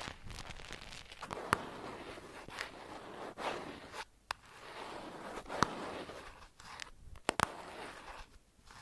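Close-miked ASMR trigger sounds: continuous soft crinkling and rustling, with sharp clicks about a second and a half in, just past halfway, and two in quick succession near the end.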